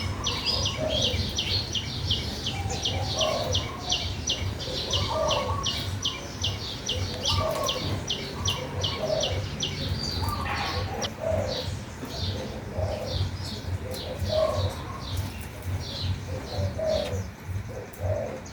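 Birdsong: a dove cooing in low repeated phrases every second or two, under a fast series of high chirps from a small songbird, about three a second, that thins out about halfway through.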